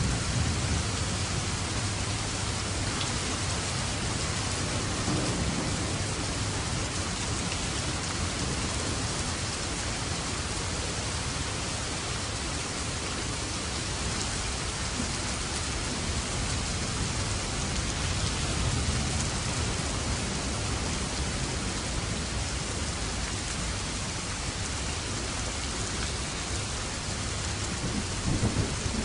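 Steady heavy rain falling, with low rolling thunder rumbling underneath that swells near the start and again near the end.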